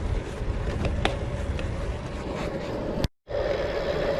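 Steady rumble of wind and road noise while riding a bicycle. The sound drops out completely for a moment about three seconds in.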